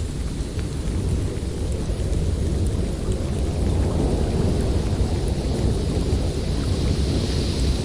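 Snowstorm wind blowing: a deep, steady rumble with a higher hiss above it that swells again near the end.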